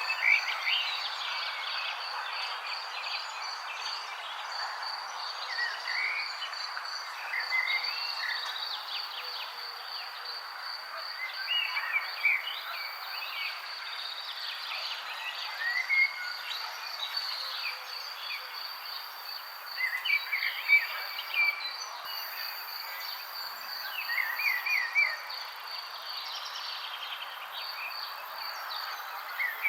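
Songbirds chirping and warbling in short phrases every few seconds over a steady, high, pulsing insect trill, with a constant background hiss.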